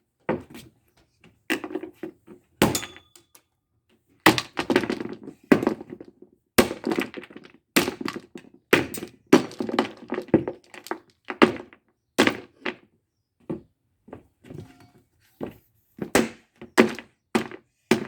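Repeated blows smashing a cheap, brittle plastic exhaust fan: a long, irregular string of hard knocks, about one or two a second, with the plastic housing cracking and breaking.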